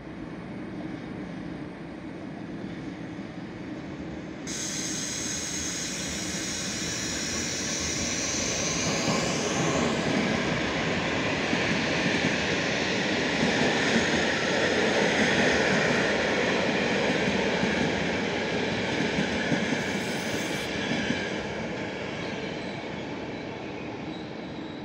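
Electric locomotive-hauled passenger train running through the station, a steady rumble of wheels on rails that grows louder toward the middle and slowly fades. Over the first several seconds, high-pitched tones slide down in pitch above the rumble.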